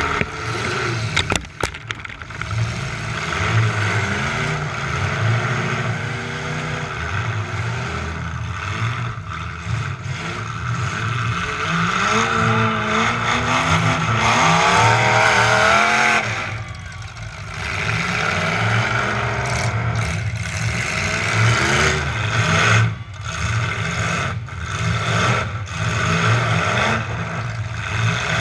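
A demolition derby truck's engine revving hard, its pitch rising and falling again and again, with a few sharp bangs and clatter from the trucks hitting each other.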